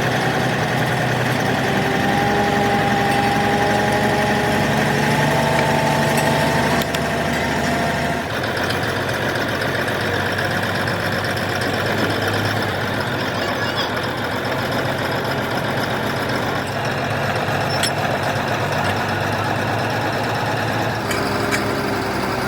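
An engine running steadily, with an abrupt change in the sound about a third of the way in and again near the end.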